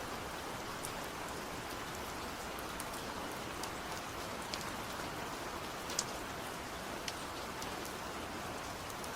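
Steady rain falling, with individual drops ticking sharply here and there over the even patter; one louder drip about six seconds in.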